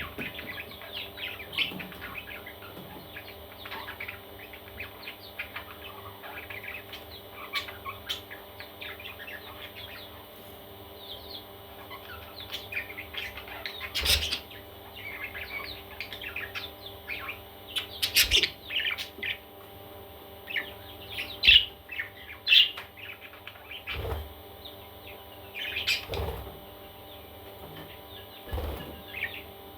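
Parrot chicks chirping: many short, high calls throughout, denser and louder in the second half, with a few soft knocks and a faint steady hum underneath.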